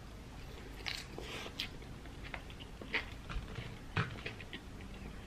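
A person chewing a mouthful of spicy Thai chicken salad, with soft, irregular crunches and mouth clicks about once a second.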